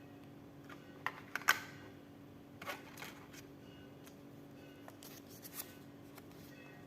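Handling noises from unboxing: a few sharp clicks about a second in and again near the middle, with light rustling of packaging between them, over a steady faint hum.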